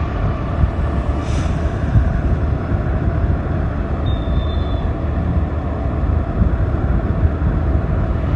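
Steady wind and road noise from a motorcycle ride, with a heavy low rumble of wind buffeting the microphone. A short faint high beep sounds about four seconds in.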